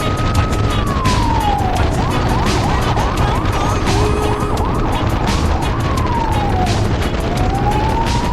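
Electronic siren sounding: a long wail that falls, then a run of quick yelps, then another fall and rise near the end.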